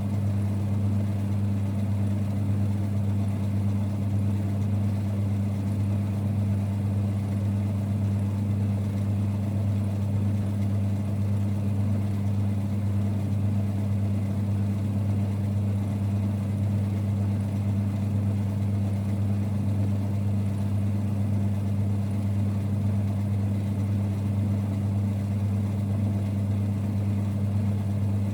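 1946 Boxford lathe running at a constant speed, a steady low rumble with an even hum that does not change.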